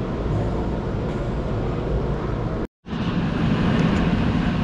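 Steady low hum of a busy indoor aquarium gallery, cut by a brief complete dropout of sound just under three seconds in.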